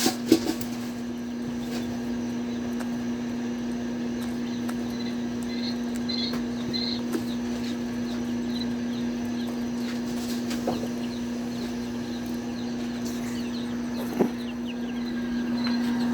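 A steady low hum, with faint short high chirps scattered over it and a few brief knocks.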